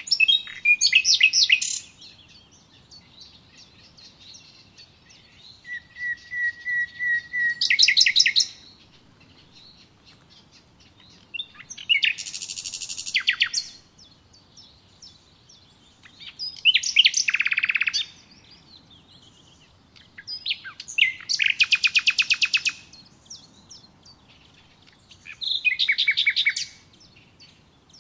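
Songbirds singing: six loud, fast-trilled phrases, each a second or two long, about every four to five seconds, with fainter chirps in between.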